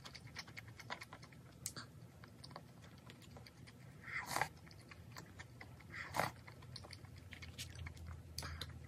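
Close-miked eating sounds: steady chewing of fried rice with small wet mouth clicks, and a louder sip of spicy malatang soup from a spoon about four seconds in, with another louder mouth sound about two seconds later.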